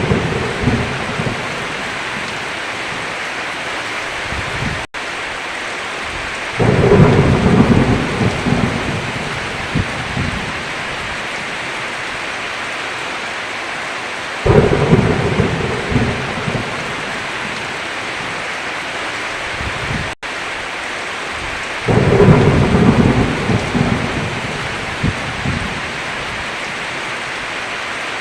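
Heavy rain falling steadily with rolls of thunder. A low rumble swells up and fades about every seven to eight seconds, three times, and the rain sound cuts out for an instant twice.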